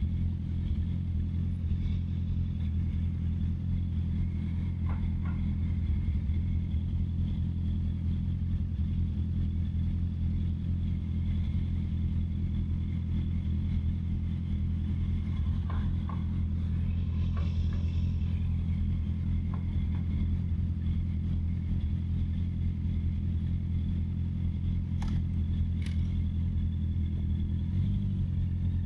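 Honda CB650R's inline-four engine running steadily under way, its note held at a nearly constant engine speed.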